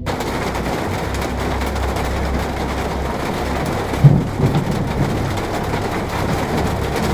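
Heavy rain pouring down in a thunderstorm, with a low rumble of thunder underneath. A sudden loud bang comes about four seconds in, the loudest moment.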